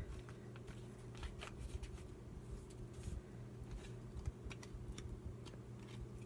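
Faint rustling and light clicks of paper being handled, over a steady low hum.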